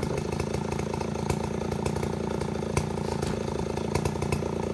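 Chainsaw engine running at a steady speed.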